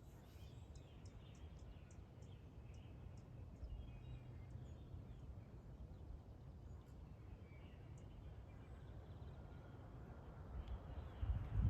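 Wind buffeting the microphone as a steady low rumble, with faint bird chirps early on and a stronger gust building near the end.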